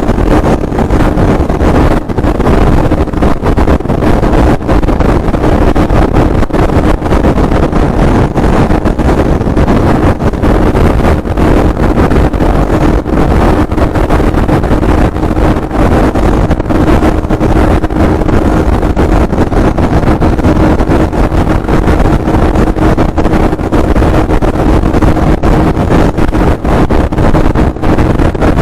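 Inline-four superbike engine and exhaust running loudly and continuously, holding a steady pitch.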